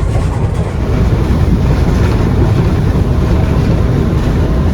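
Steady wind buffeting the microphone over the rush of water and the drone of twin outboard motors as a cruiser runs at speed.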